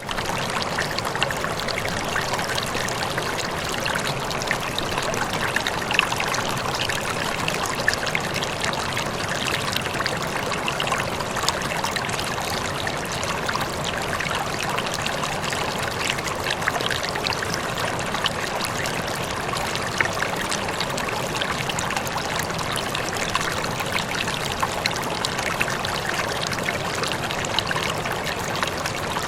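Running water flowing steadily, with small splashes and trickles through it.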